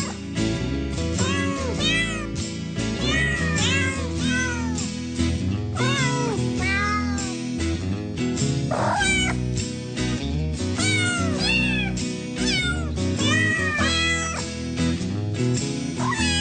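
Cat meowing over and over, about one short rising-and-falling meow a second, over steady background music.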